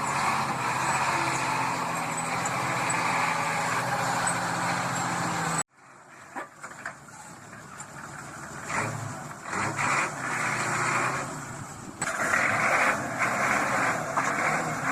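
Heavy vehicle engines running, in separate clips: a steady engine hum under a loud rushing noise that cuts off abruptly about five and a half seconds in, then quieter uneven engine noise with a few knocks, and louder engine noise again from about twelve seconds.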